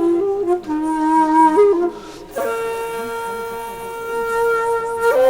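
Background music: a solo flute-like wind instrument playing a slow melody of long held notes with small pitch slides, with a short breath pause about two seconds in.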